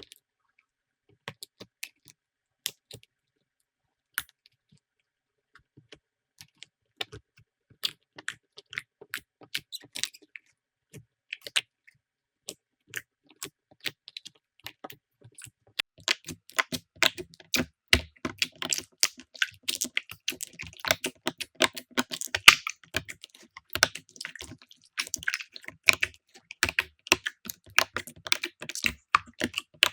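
Slime being squished and poked by hand, with sharp sticky clicks and crackles. They come sparsely at first and become dense, rapid crackling about halfway through.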